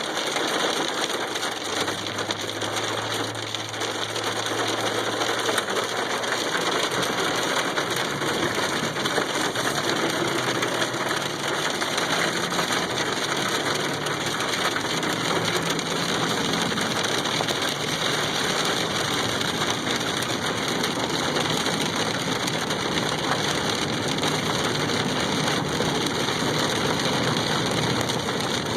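Car driving through a snowstorm: a steady hiss of road and weather noise with a low engine hum underneath.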